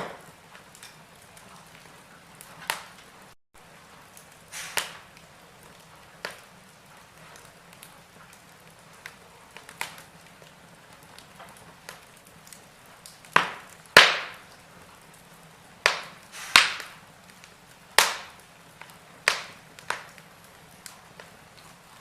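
Wood fire in a fireplace crackling: sharp, irregular pops over a faint steady hiss. The loudest pops bunch together in the second half.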